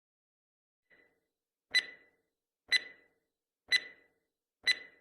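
Countdown timer sound effect: a short, sharp tick with a beep-like tone, once a second, the first one faint and the next four clear.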